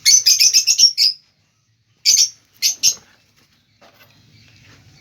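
Small pet parrots chirping in their cage: a fast run of high, sharp chirps through the first second, then three short bursts of chirps between two and three seconds in.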